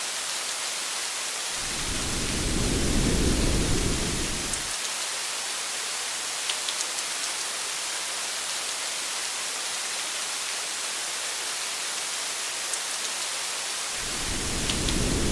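Steady rain hiss with a few faint drop ticks. A low rumble of thunder comes in about two seconds in and lasts about three seconds, and another begins near the end.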